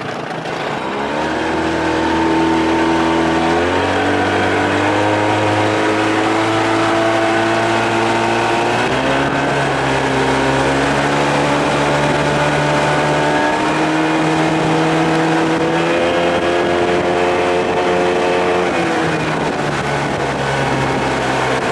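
Evinrude 25-30 hp two-cylinder two-stroke outboard running under way. Its note climbs in steps as the throttle is opened, holds high at speed for a long stretch, then drops back as it is eased off near the end.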